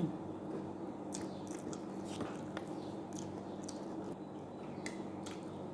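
Close-up mouth sounds of a person eating seafood: chewing with scattered small wet smacks and clicks. A steady low hum runs beneath.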